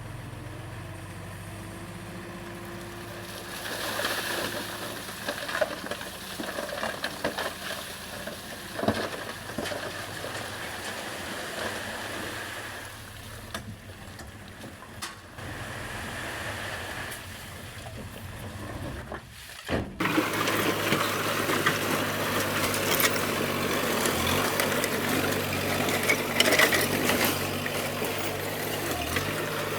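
Bulldozer's diesel engine running steadily under irregular clanking and scraping of the blade and tracks working stone. It cuts off abruptly about two-thirds of the way in and resumes louder and more rattling.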